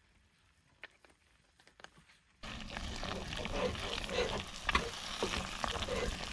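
Quiet with a few faint clicks, then about two seconds in a pot of cheese sauce and pasta shells sizzling and bubbling, with thick bubbles popping repeatedly.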